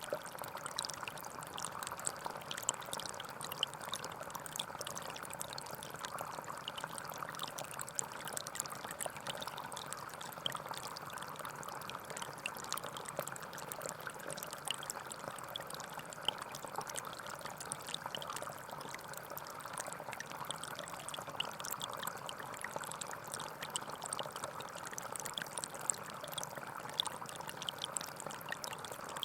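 Gentle forest stream flowing steadily, with many small splashes and droplet ticks through the rush of water.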